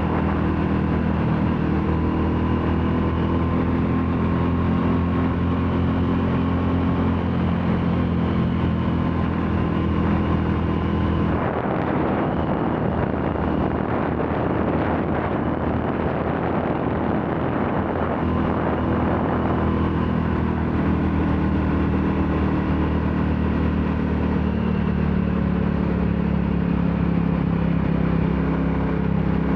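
Royal Enfield Classic 350's single-cylinder engine running steadily while the motorcycle is ridden at a constant pace. From about 11 seconds in, a rougher rushing noise covers the engine note for about eight seconds before the steady engine sound returns.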